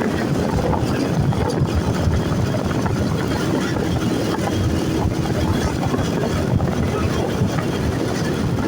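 Steady engine, road and wind noise of a moving vehicle, heard from on board while driving.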